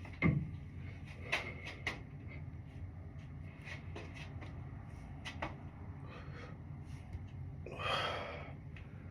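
A dull thump, then a few light clicks and knocks, and a short breathy rush near the end.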